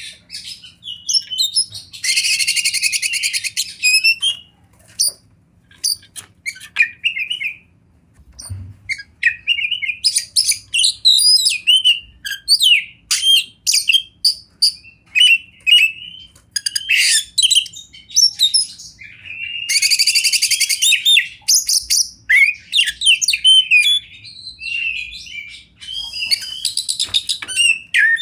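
Oriental magpie-robin singing a fast, varied song of whistles and chirps, broken a few times by harsh, buzzy rattles.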